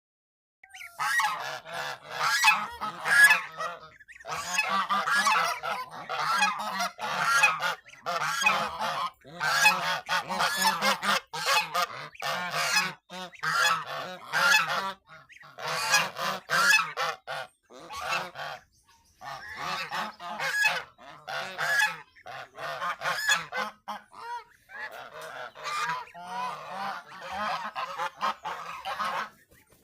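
Farmyard fowl calling in repeated bursts of several calls, with short pauses between.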